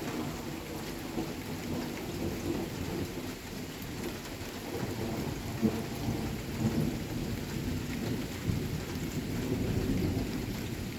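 Thunderstorm: steady rain falling, with a continuous low rumble of thunder and a couple of short louder peaks around the middle.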